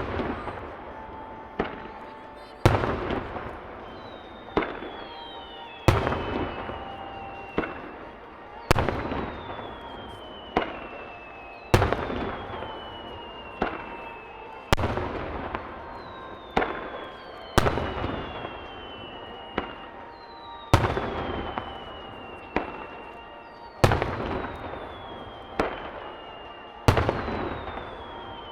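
Aerial firework shells bursting one after another, a loud bang about every second and a half, each followed by a rolling echo. High whistles fall slowly in pitch between the bangs.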